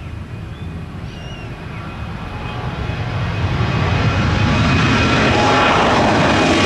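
Airbus A330 airliner's jet engines, a deep rumble with a steady whine, growing louder over a couple of seconds and then holding loud. A few short high chirps sound in the first two seconds.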